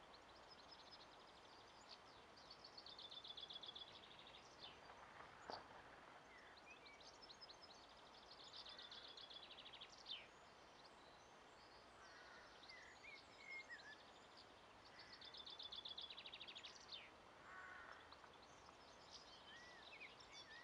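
Small songbirds singing faintly: three short, rapid high trills with scattered chirps between them, over a steady faint outdoor hiss.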